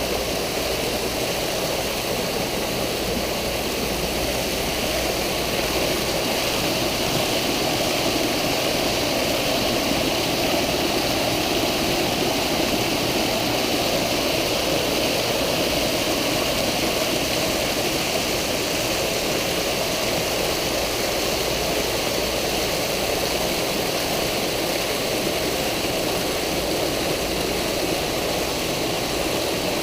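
Steady rush of water pouring and splashing into a swimming pool from its water features, with a low hum underneath.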